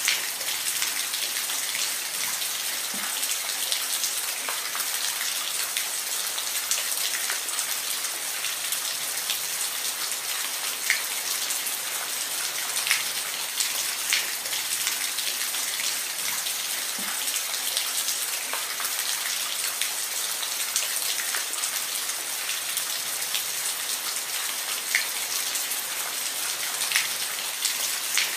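Steady rain, a constant hiss with scattered individual drops ticking on a surface.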